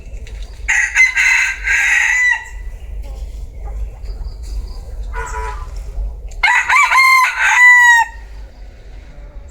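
Bantam rooster (gà tre) crowing twice: a rough crow about a second in, then after a short call a clearer, high crow that falls in pitch at its end. A steady low rumble runs underneath.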